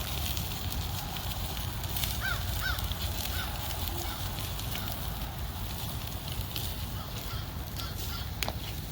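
Chicken wings searing over a charcoal grill: a steady sizzle with scattered pops and crackles, over a low rumble of wind on the microphone. A bird calls several times in the background about two seconds in, fainter after.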